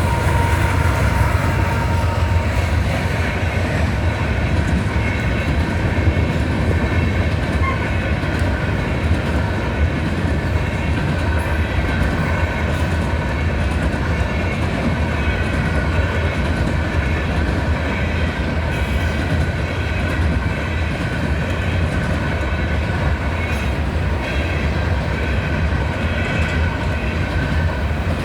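A train rolling through a railroad grade crossing: a steady, loud rumble with the clickety-clack of wheels over the rail joints.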